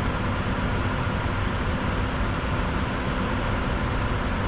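Steady cockpit noise of a Bombardier Challenger 605 in flight: an even rush with a faint steady hum underneath, no single event standing out.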